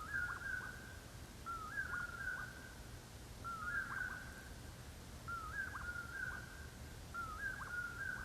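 A bird calling a repeated whistled phrase, five times about every two seconds. Each phrase is a short rising note that runs into a held, level note.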